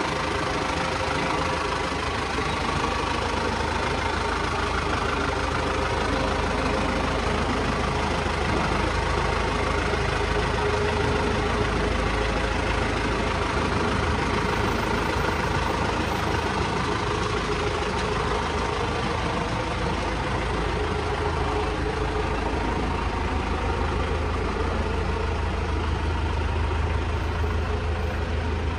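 Toyota Dyna's 4.1-litre 15B-FT four-cylinder turbo diesel idling steadily, with a low hum underneath.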